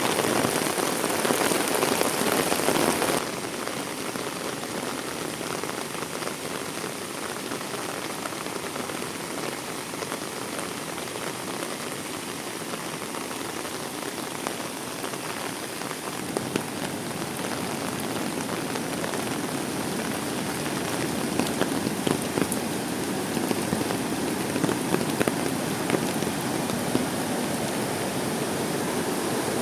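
Heavy rain falling: a steady hiss with scattered drop ticks, which drops abruptly in loudness about three seconds in.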